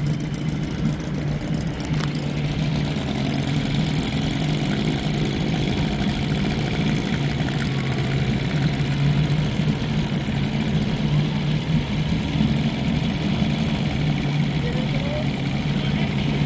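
Vintage Johnson 20 hp two-stroke outboard motor running at a steady speed.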